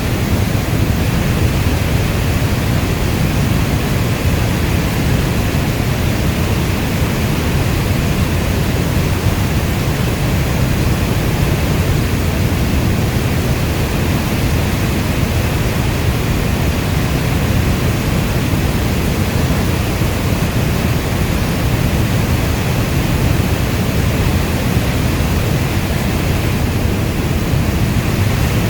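Steady heavy rainfall: a dense, unbroken rushing noise, strongest in the low end, with no thunder or separate drops standing out.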